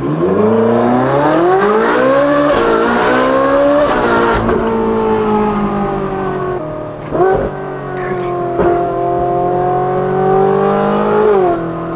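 Ferrari 458's naturally aspirated V8, on a titanium valved exhaust with free-flow front bypass pipes, heard from inside the cabin. It accelerates hard with the pitch climbing for about four and a half seconds, drops sharply in an upshift, then pulls on at steadier revs with two more quick shifts.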